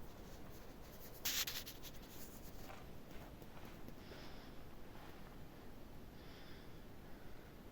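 A brief scratching, rustling scrape about a second in, over a low background hiss, followed by a few faint high sounds spaced about two seconds apart.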